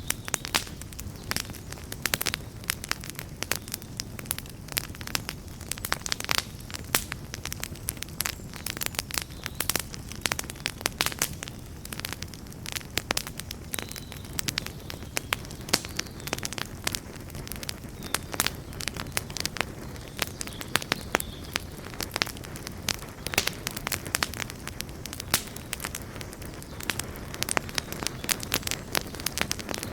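Campfire burning with dense, irregular crackles and pops over a steady low rumble of the flames.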